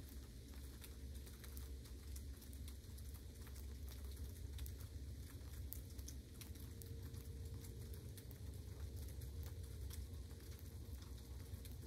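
Light rain pattering, with scattered sharp drop ticks over a steady low rumble.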